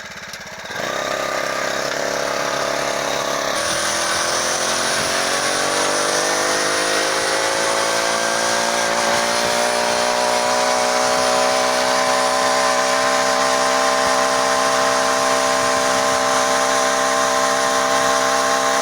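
Small engine of a motorized bicycle under way: it picks up about a second in, its pitch climbs steadily as the bike gathers speed, then holds an even note at cruising speed.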